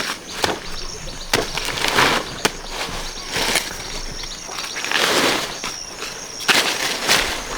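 Irregular rustling and scraping noises, a dozen or so short strokes, over a faint, steady, high insect drone.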